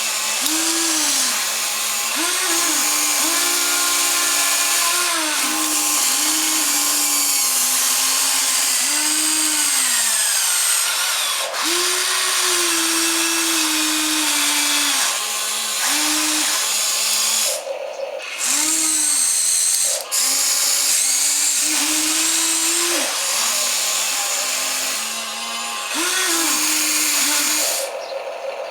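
Small electric motors of a toy remote-control excavator whining as it digs and loads, starting and stopping again and again. Their pitch rises and falls with the load, with short pauses about two-thirds of the way through and near the end.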